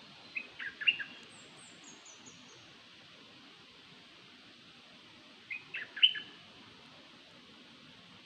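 A bird calls in two short phrases of three or four quick chirps, about five seconds apart: the 'nok dok taeng' call used to lure this bird. A fainter, higher series of falling twittering notes follows the first phrase, over a steady hiss.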